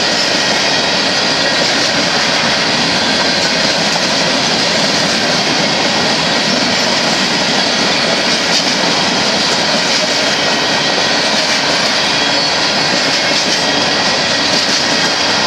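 Hopper cars of a Union Pacific freight train rolling past: a steady, loud noise of steel wheels on rail, with a faint high wheel squeal over it.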